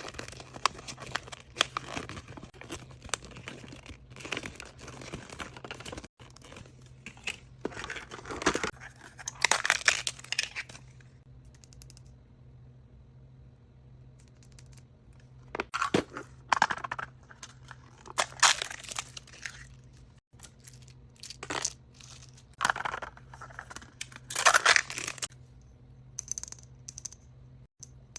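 Wrapping on a mystery surprise toy being crinkled and torn open by hand. There are dense crackling rustles for the first ten seconds or so, a short pause, then several separate bursts of tearing and crinkling.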